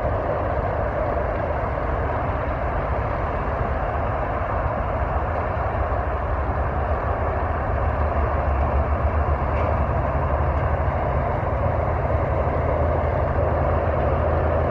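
Steady road-traffic noise: a heavy vehicle's low engine rumble under tyre and road noise, the rumble growing stronger about halfway through.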